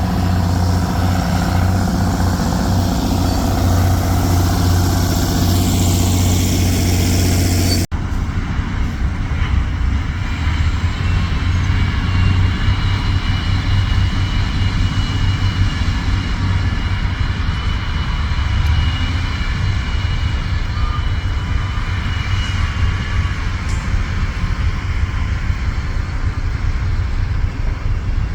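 Heavy dump truck's diesel engine running steadily, with a deep low rumble. About eight seconds in the sound breaks off sharply and picks up again at a similar level. Later a thin, steady high whine runs over the engine for several seconds.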